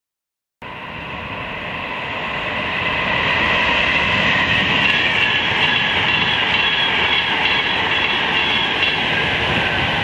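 A Virgin Trains express passenger train passing: a rushing rumble of wheels on rail that builds over the first few seconds and then holds steady, with a high whine over it. It starts abruptly after a brief silence at the start.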